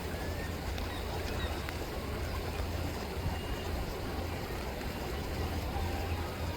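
River water rippling steadily over a constant low rumble, with a few faint, short gull calls.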